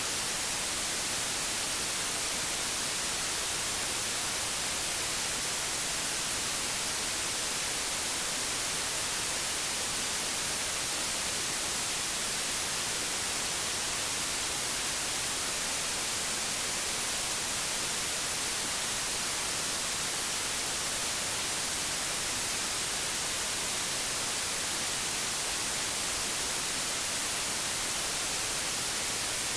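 Old analogue television static: a steady, even hiss, strongest in the treble, with no change or break.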